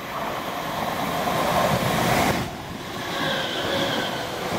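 Great Northern electric multiple unit running along the platform, its wheel and air rush building to a peak about two seconds in. From about three seconds in there is a high whine.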